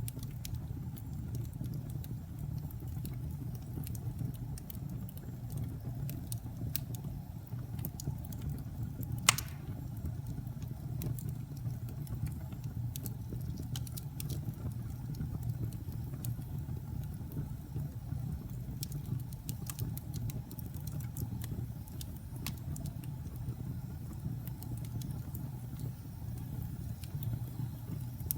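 Wood fire burning in a fireplace: a steady low rumble of the flames with scattered crackles and pops, one sharp pop about nine seconds in.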